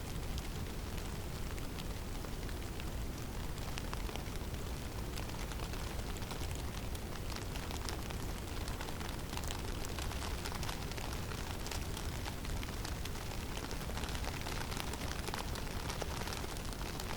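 Heavy snowstorm in a forest: a steady rush of wind with a low rumble, and a dense patter of small ticks from falling snow.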